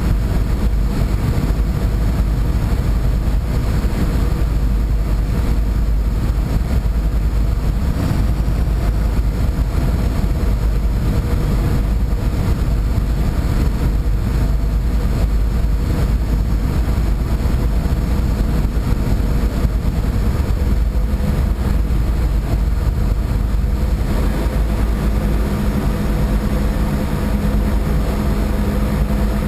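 Steady, loud drone of a boat's engines under way, with deep rumble and a few steady hum tones over it. A new hum tone comes in near the end.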